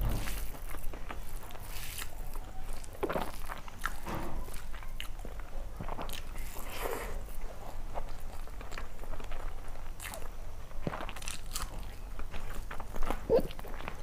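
A person chewing and biting food close to the microphone, with wet mouth sounds, while her fingers mix rice and greens on a steel plate.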